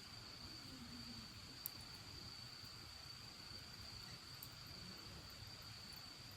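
Faint, steady high-pitched trill of crickets, with a few small sharp crackles from the bonfire, one a little louder about two seconds in.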